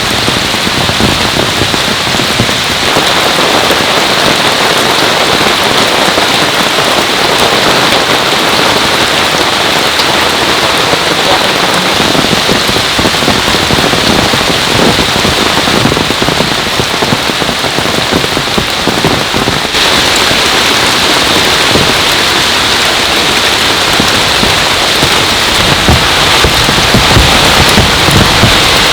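Heavy downpour, a dense and steady rush of rain with a slight change in its character about twenty seconds in.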